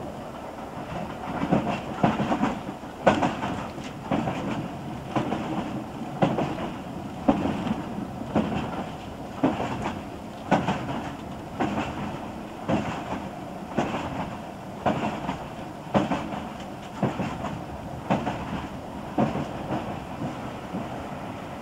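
Wheels of a British Rail slam-door electric multiple unit clacking over rail joints while running, heard from inside the carriage: a steady rumble with a regular clack about once a second, starting about a second in.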